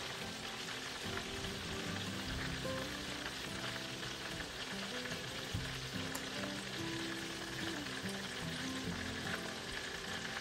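Breaded chicken drumsticks sizzling steadily as they shallow-fry in hot oil in a pan.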